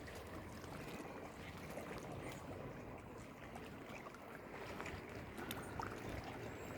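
Faint steady outdoor background noise with a few small scattered clicks.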